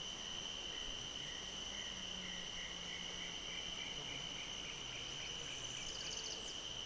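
Dusk chorus of crickets and other insects, a steady high-pitched trill. Over it a series of short call notes comes faster and faster for several seconds, and a brief rapid chattering call sounds near the end.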